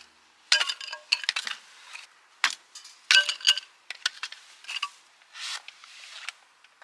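Small hard objects, like utensils or dishes, clinking and rattling in short irregular clusters with brief metallic ringing; the busiest clusters come about half a second in, around a second and a half, and around three seconds.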